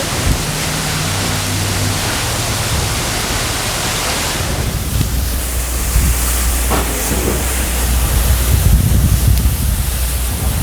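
Steady rush of a rain-swollen waterfall as a loud, even hiss. About halfway through, a gusty low rumble joins in, which sounds like wind buffeting the microphone.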